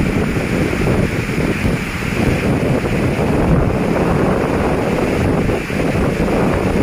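Strong storm wind gusting across the microphone: a loud, steady rushing roar, heaviest in the low end.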